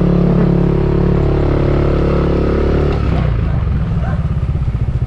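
Yamaha NMAX scooter's single-cylinder engine pulling steadily under throttle, then easing off about three seconds in, its pitch falling.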